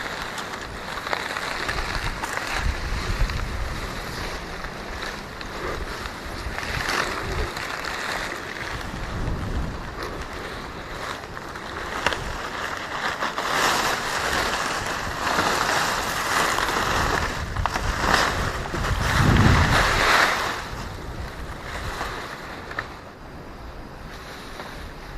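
Wind and rain of a storm: a continuous rushing noise that swells and eases in gusts, loudest around the middle with a low rumble from wind buffeting the microphone, then dying down near the end.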